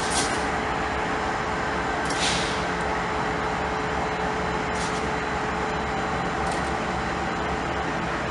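Train running with a steady rumble and a constant drone, with four short hisses of air spaced a second or two apart.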